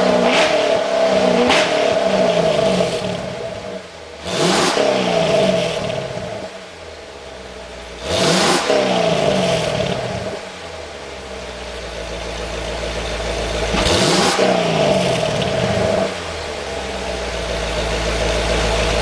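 2009 Corvette C6's LS3 V8 being blipped through its factory dual-mode exhaust: three sharp revs about 4, 8 and 14 seconds in, each dropping back to a steady idle. At high throttle the exhaust valves open, so the sound comes from all four tailpipes.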